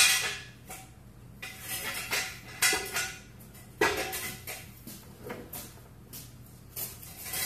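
Metal tools and parts clinking and clanking while being handled under the car: a string of short, sharp knocks at irregular intervals, some louder than others.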